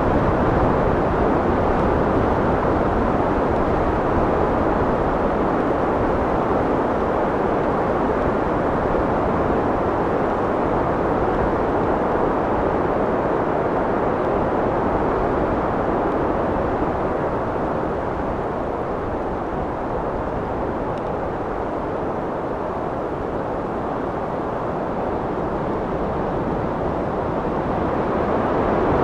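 Wind blowing, a steady low rushing noise that eases a little past the middle and swells again near the end.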